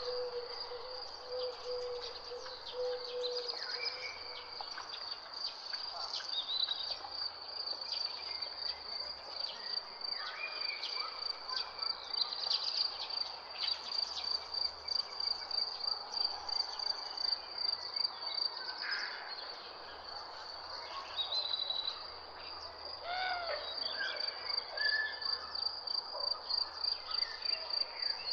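Cricket chirping steadily in a fast, even pulse, with assorted birds giving short chirps and calls over it. A low held call sounds in the first few seconds.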